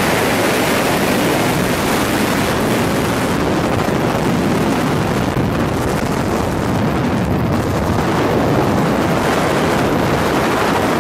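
Helicopter noise with wind rushing over the microphone: a loud, steady rush without letup.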